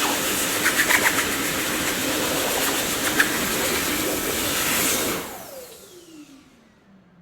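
Dyson vacuum cleaner running with a steady hiss and a few brief rattles. About five seconds in its motor cuts out and winds down, the whine falling in pitch as it fades.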